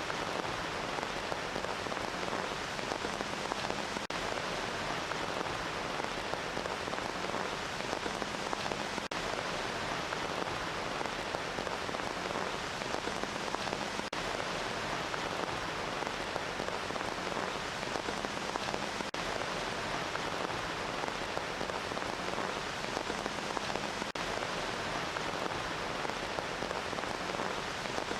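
Steady rain falling, an even, unbroken hiss of many drops at a constant level.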